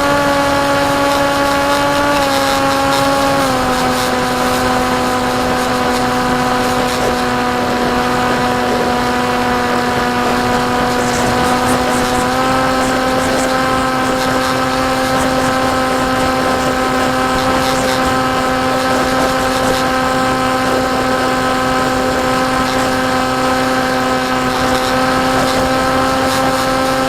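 Electric motor and propeller of a KT Wing flying wing running in flight: a steady hum with many harmonics. Its pitch drops in two steps in the first few seconds as the throttle is eased, then rises slightly about twelve seconds in, over a steady rush of air.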